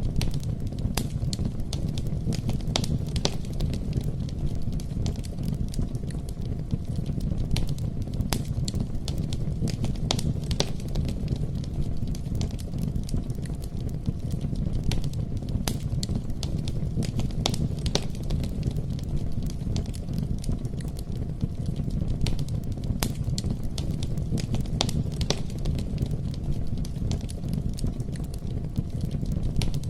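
Wood campfire crackling: frequent irregular sharp pops and snaps over a steady low rumble of burning.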